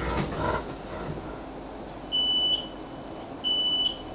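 Class 458 train's door warning beeps: a high steady beep about half a second long, twice, about a second and a half apart, as the train stands at the platform, over a low interior rumble.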